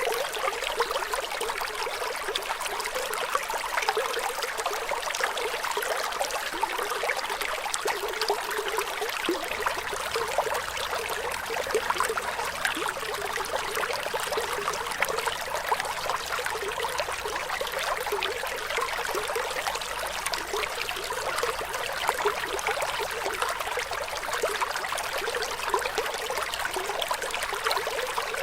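Running water trickling and splashing steadily, a continuous babble of small flowing water.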